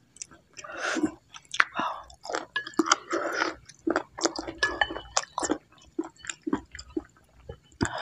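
Close-miked chewing of a mouthful of bakso aci soup, with many short wet clicks and smacks from the mouth.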